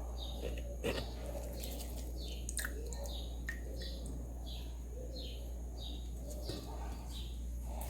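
A bird chirping over and over, about two short high chirps a second, over a steady low hum, with a sharp knock about a second in.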